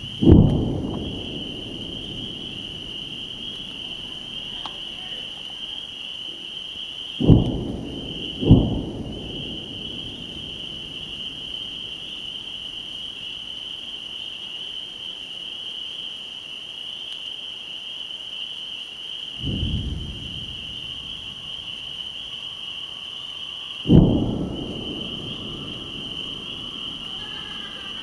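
A steady high chorus of spring peepers, broken by five distant low booms that start suddenly and die away over about a second; two of them come close together. The booms are what the listener calls artillery.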